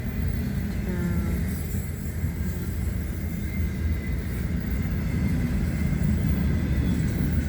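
Double-stack intermodal freight train cars rolling past, a steady low rumble of wheels on rail.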